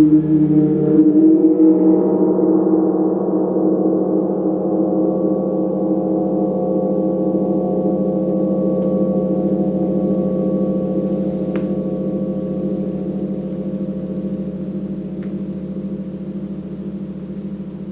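A gong ringing with many overlapping steady tones, swelling about a second in and then slowly fading as the higher overtones die away first.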